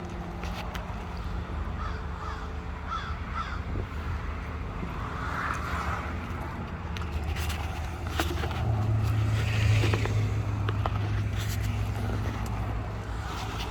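A 1987 K10 pickup's engine running steadily, its low hum getting louder a little past halfway. Crows caw over it several times.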